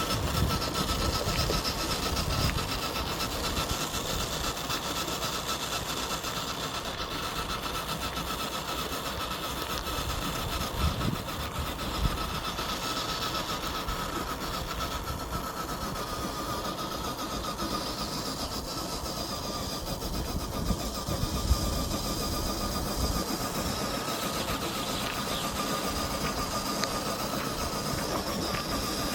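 FMS FJ40 RC crawler's electric motor and gearbox whining steadily as it drives, with scattered low thuds and a couple of sharper knocks, about 12 and 21 seconds in.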